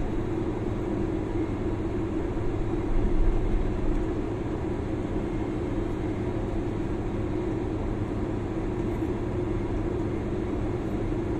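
Airliner cabin noise on the ground after landing: the engines at idle give a steady low rumble with a constant hum, swelling briefly about three seconds in.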